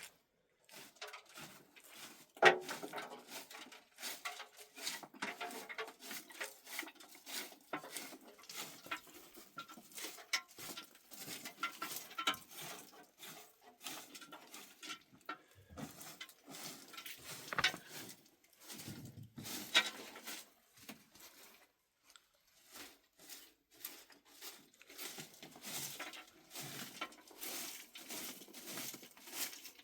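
Irregular small knocks, clicks and rustling, as of things being handled and moved about, with sharper knocks about two and a half seconds in and again near seventeen and twenty seconds.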